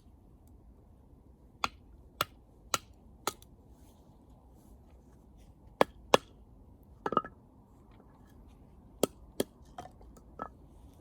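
Wood fire crackling: about ten sharp, irregular pops and snaps from burning wood over a low, steady background hiss, with a cluster of louder pops around the middle.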